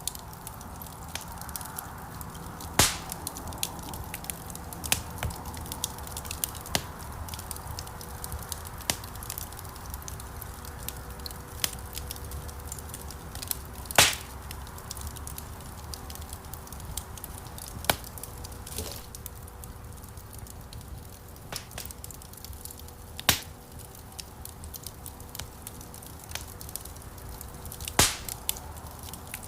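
Wood logs burning in a fireplace: steady crackling with frequent small snaps and four louder sharp pops, the loudest about halfway through.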